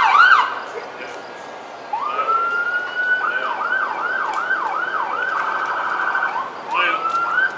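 Electronic emergency-vehicle siren. A short sweep ends just after the start, then about two seconds in a rising tone comes on and holds. It then sweeps up and down about twice a second, breaks briefly into a faster yelp, and ends with another short rising sweep.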